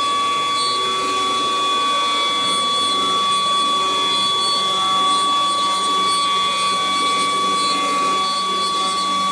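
CNC wood router at work: a steady high whine from the spindle, with the axis motors' pitch shifting in short steps as the head moves.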